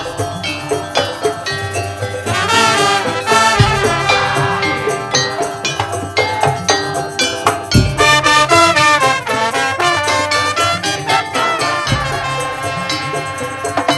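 Madurese musik tong-tong ensemble playing: a melodic line over a fast, steady percussion beat, with a deep drum hit about every four seconds.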